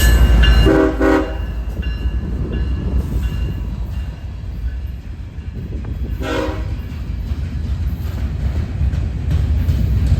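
Freight train passing with a steady low rumble of rolling railcars. It is broken by two short train-horn blasts, one about a second in and a louder one about six seconds in.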